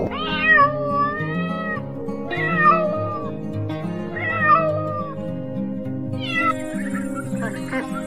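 Domestic cat meowing: three drawn-out meows of about a second each, then a shorter fourth, over background music.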